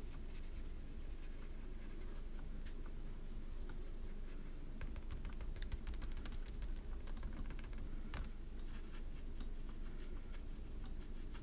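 Scattered light taps and scratchy clicks of painting work on paper, a few in quick clusters, over a steady low hum.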